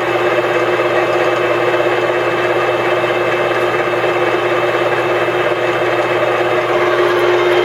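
ENCO 13 x 40 inch bench lathe running under power with the cross feed engaged: a steady mechanical whine over a lower hum from the motor and gear train.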